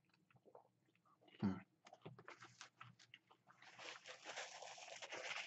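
Faint eating sounds: small wet chewing clicks from fried cheese curds, with a short voiced "mm" about a second and a half in. In the second half comes a couple of seconds of soft rustling.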